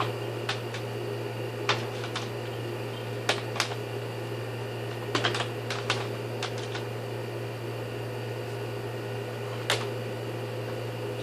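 Scattered sharp clicks and taps, irregular and a few in quick clusters, over a steady low hum.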